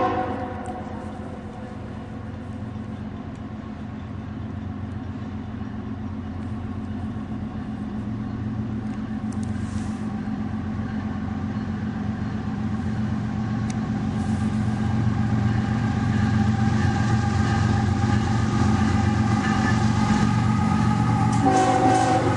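Approaching diesel train locomotive, its engine rumble growing steadily louder as it nears. The train horn cuts off just at the start and sounds again near the end.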